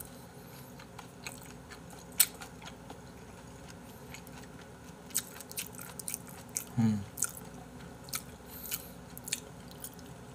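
A man chewing mouthfuls of gopdoritang, spicy braised chicken with beef intestines, with scattered short wet mouth smacks and clicks. A brief low hum comes through the mouthful about seven seconds in.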